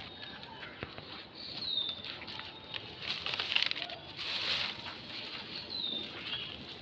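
Rustling and crackling in three bursts from plastic litter and vegetation being handled as it is pulled from the ground, with a few light clicks. A bird gives a short falling chirp twice.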